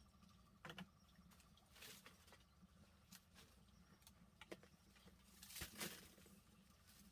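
Near silence: faint scattered clicks and rustles over a low steady hum.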